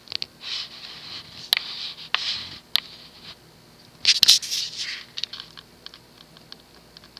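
Scratching and rustling noises with sharp clicks, loudest about four seconds in, over the faint steady hum of a Nutone Elegance ceiling fan motor running on its lowest speed. Sparse ticks follow near the end.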